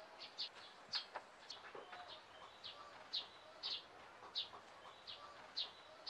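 A bird chirping faintly: short, high, slightly falling notes repeated about once or twice a second.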